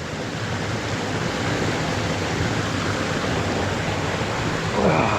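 Creek water rushing over rocks close by, a steady, even noise.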